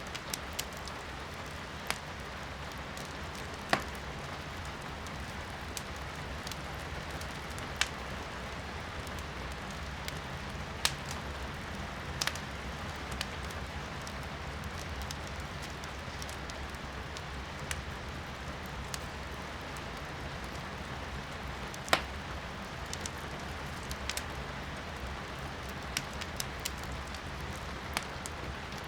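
Wood fire in a fireplace crackling, with irregular sharp pops and snaps of burning firewood, the loudest about two-thirds of the way through, over a steady hiss of falling rain.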